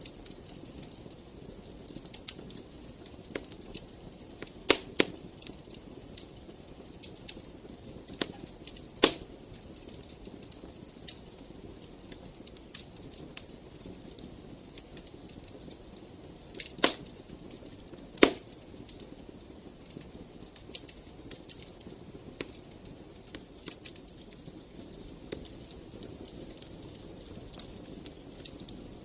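Wood fire crackling in a fireplace: a steady low hiss with frequent small crackles and a few sharp louder pops, about five, nine, seventeen and eighteen seconds in.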